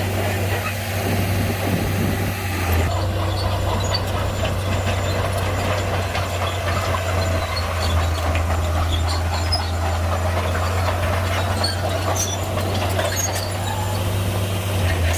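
Shantui crawler bulldozer's diesel engine running steadily with a deep drone while the machine works, with scattered sharp clicks and clanks in the second half.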